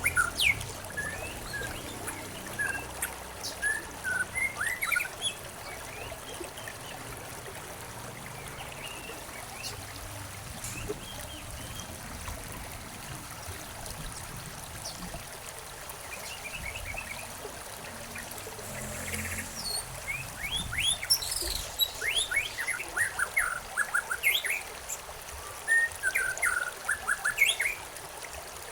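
Songbirds chirping and trilling over steady trickling stream water; the bird calls are sparse at first and grow busier in the last third.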